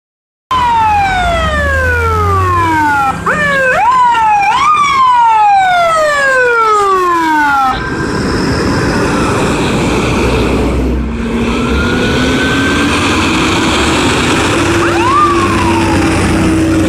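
Emergency vehicle sirens from a fire engine and an ambulance responding to a call. A loud siren wail falls steadily in pitch for several seconds, with a few quick rising whoops in the middle, then cuts off. A lower siren tone follows and rises slowly, over the rumble of the trucks and traffic.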